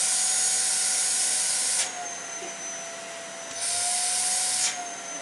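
Vacuum cleaner running, a steady motor whine under a loud rush of air. The rush drops away about two seconds in, comes back a second and a half later, and drops again near the end, while the motor keeps running.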